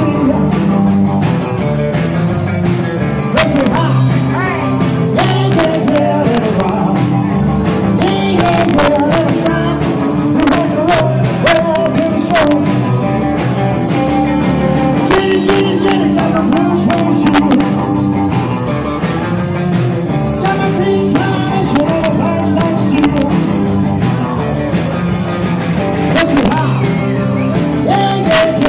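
Rock and roll band playing live, drums hitting sharply under a wavering lead melody.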